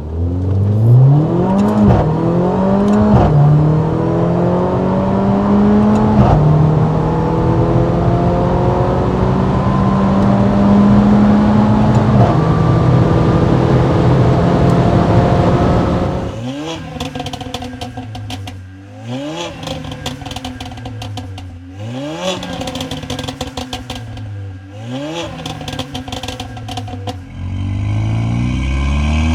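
Tuned Mercedes-AMG A45's turbocharged 2.0-litre four-cylinder engine under hard acceleration. It climbs in pitch and drops sharply at each upshift, four times in the first half. It then gives a run of quicker, quieter rises and falls with crackling from the exhaust, before climbing steadily again near the end.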